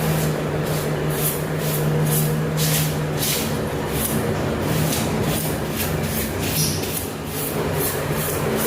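A steady mechanical hum with rhythmic hissing strokes, about two to three a second.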